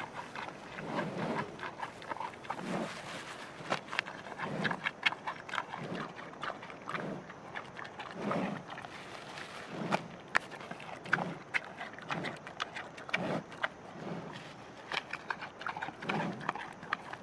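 Giant panda calling: short, low bleating calls repeated about once a second, with sharp clicks in between.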